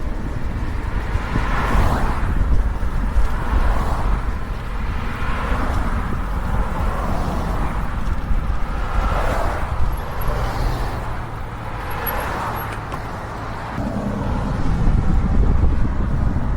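Road traffic: several cars passing one after another, each a swell of tyre and engine noise that rises and fades, over a low wind rumble on the microphone.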